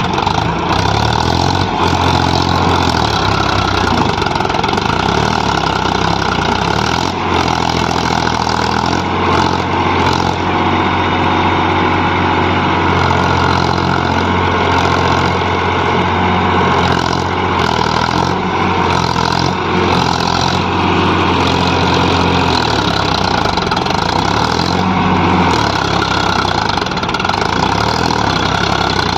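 Powertrac Euro 50 tractor's diesel engine running steadily, a loud, continuous drone with small shifts in tone.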